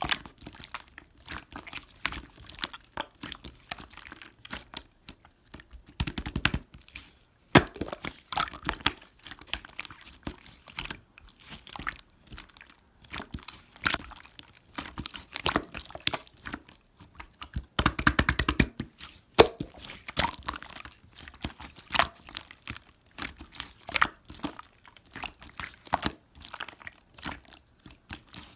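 Slime being squished and pressed by hand: an uneven run of small crackles and pops, with two denser bursts of rapid popping, about six seconds in and again near eighteen seconds.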